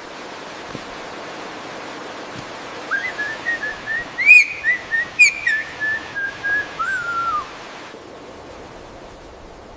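A bird whistling a run of about a dozen short, clear notes, two louder upswept ones near the middle, ending on a falling note, over a steady hiss.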